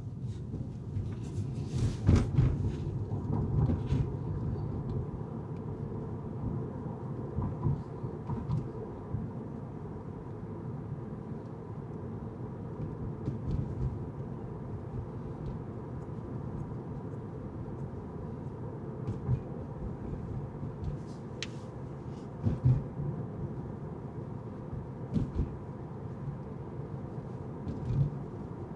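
Car driving on city streets: a steady low rumble of road and engine noise, with a few short knocks and bumps.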